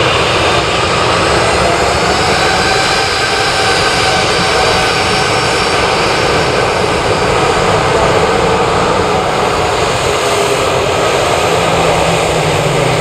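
Boeing 737-800's CFM56-7B jet engines running at high power during the takeoff run, a loud, steady jet roar with faint engine tones drifting slightly lower in pitch.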